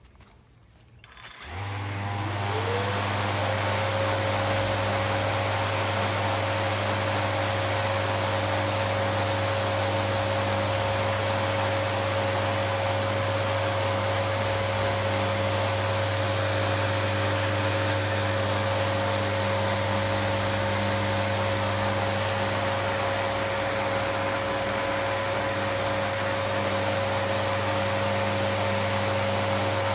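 Electric sander with 400-grit paper starting up about a second and a half in, its motor whine rising briefly to a steady pitch, then running evenly with a constant hiss while sanding the cured epoxy repair.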